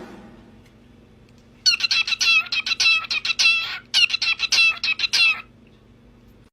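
A bird calling in two rapid runs of high, sharp notes, each run lasting about a second and a half, with a short pause between them.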